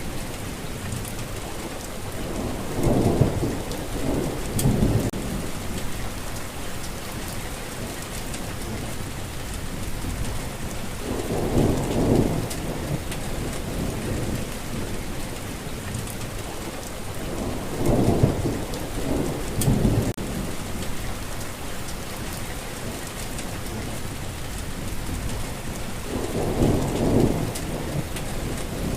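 Steady heavy rain falling, with rolling thunder rumbling four times, a few seconds apart.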